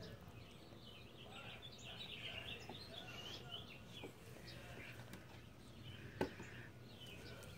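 Faint songbirds chirping in the background, with a single sharp knock about six seconds in.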